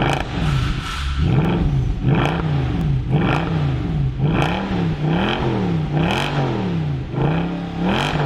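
Mercedes C63 AMG exhaust as the engine is blipped again and again, about once a second, the pitch rising and falling each time, with sharp cracks near the tops of the revs.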